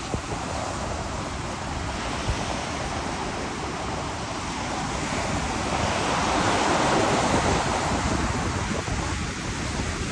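Sea waves washing on a shore, with wind rumbling on the microphone. A wave swells louder about six seconds in and then eases off.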